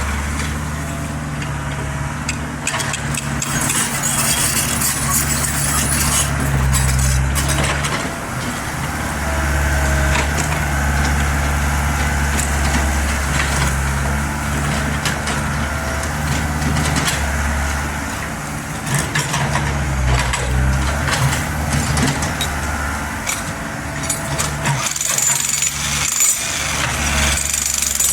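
Mini excavator engine running, its note swelling and easing as the machine works, with a thin hydraulic whine and scattered knocks and scrapes.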